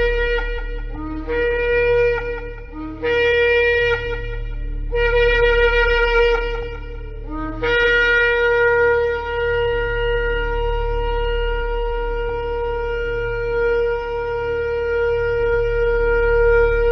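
Shofar (ram's horn) blasts, each opening on a low note that jumps up to a higher one: four short blasts, then a long held blast from about halfway in. A steady low hum lies underneath.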